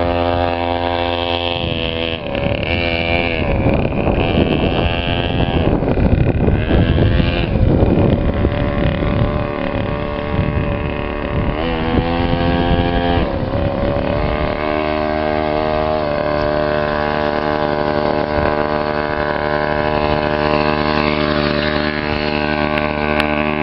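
Custom chopper motorcycle's engine running, its pitch rising and falling with the throttle, then holding steady from a little past halfway.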